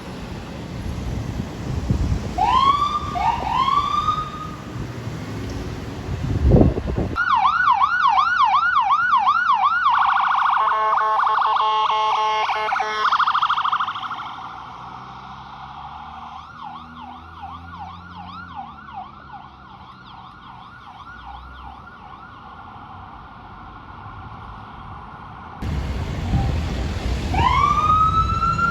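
Emergency vehicle sirens from several responding units. First a few short whoops over engine rumble, then a fast yelp that switches to a rapid stuttering tone and fades to a quieter yelp. A slow wail rises near the end.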